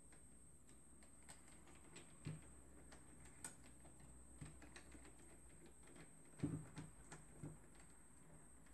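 Faint, scattered light clicks and taps of a printer fuser's parts being handled during greasing, a small cluster about six and a half seconds in, over near silence.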